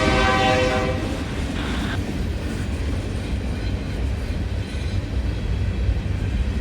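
A freight locomotive's air horn holding a chord, which cuts off about a second in. After it, the low, steady rumble of the freight train rolling by.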